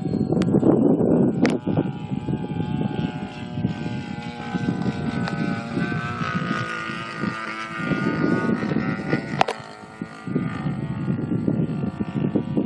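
The single-cylinder two-stroke DLE 30 gas engine of a radio-control P-51 Mustang running in flight through a Keleo exhaust. Its tone wavers a little in pitch over a low rumble.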